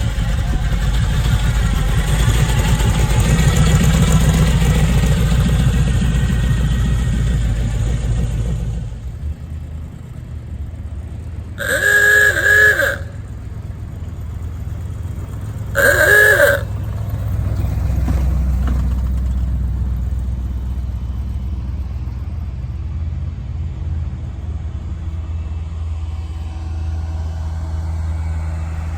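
Car engines running loud for the first nine seconds, then two car horn honks about four seconds apart, each about a second long, followed by a steady engine idle.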